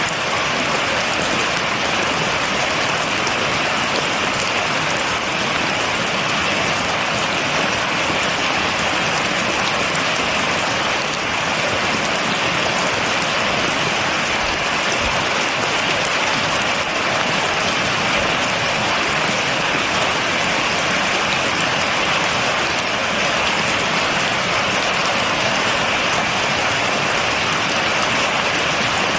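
Steady rain falling, an even dense hiss with fine drop crackle throughout. No thunder.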